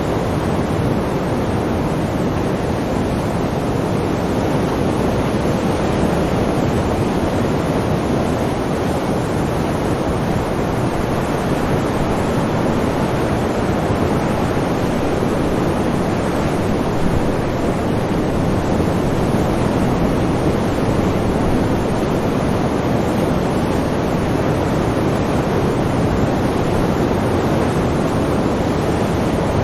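Sea surf: a steady, even rush of waves, with no single breaker standing out.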